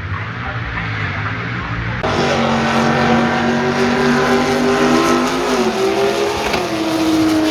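Drag-racing car engine at full throttle running down the strip, a loud steady engine note that shifts in pitch about three-quarters of the way through.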